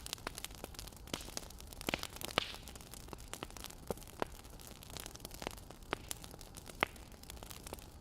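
Burning firewood crackling: irregular sharp pops, a few louder than the rest, over a soft hiss.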